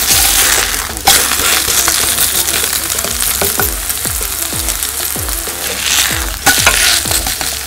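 Shredded zucchini and carrot pancake sizzling in hot oil in a ceramic-coated frying pan. A wooden spatula scrapes under it about a second in, and again sharply near the end as the pancake is lifted to flip.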